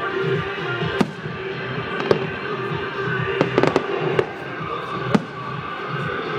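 Fireworks exploding in sharp bangs, roughly one a second with a quick run of three near the middle, over music playing for the display.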